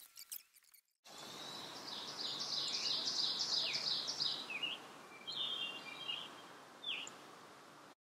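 A songbird singing: a quick run of repeated high notes for about three seconds, then a few separate chirps, over a steady outdoor background hiss.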